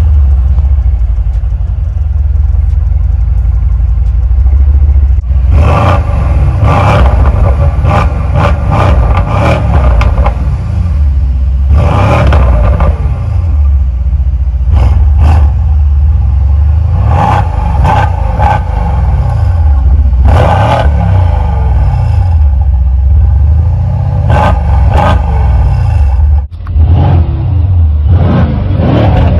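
2019 Mercedes-AMG C63's 4.0-litre twin-turbo V8, Stage 2 tuned, being revved in repeated short throttle blips through its quad exhaust, each rev rising and falling back to a steady low idle rumble. The sound briefly cuts out about three seconds before the end, then the engine carries on.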